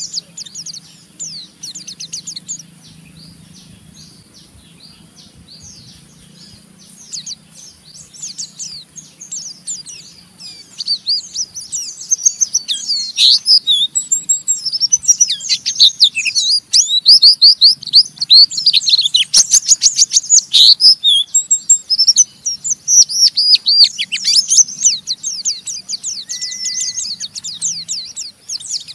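White-eye (pleci) singing its fast, twittering 'ngeriwik' chatter of rapid high-pitched notes, sparse and quieter at first, then dense and loud from about ten seconds in.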